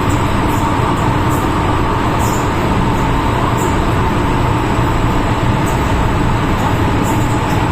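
MTR M-Train (Metro-Cammell electric multiple unit) running at steady speed, heard from inside the car: a constant rumble and roar of wheels on rails, with a steady tone running through it.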